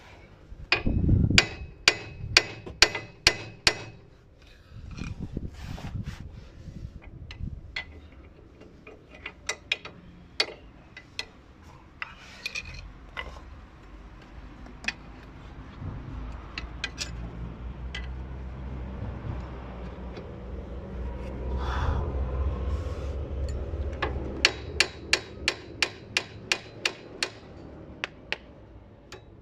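Sharp metal hammer blows during front wheel bearing removal on a car's hub, struck in quick runs of several blows, with a low steady rumble in the middle stretch.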